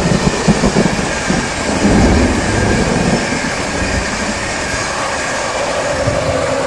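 Electric intercity passenger train passing at speed: wheel clicks and a heavy low rumble of the coaches, with a slightly falling whine near the end as the locomotive goes by. A steady hiss of rain runs underneath.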